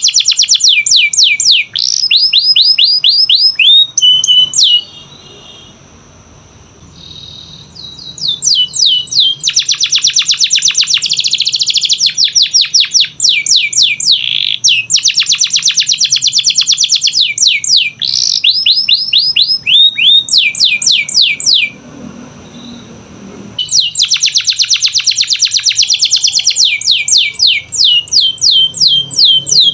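Domestic canary singing in long phrases of fast trills and rapidly repeated high notes, twice pausing briefly between phrases.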